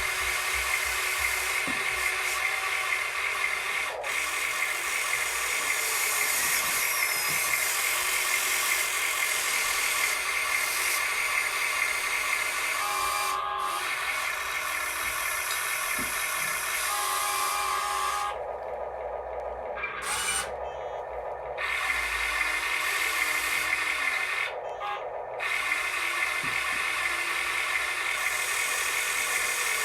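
Small electric motors and gearing of a radio-controlled construction model running with a steady high whine. The high part of the sound cuts out a few times about two-thirds of the way through, leaving a lower whine, then comes back.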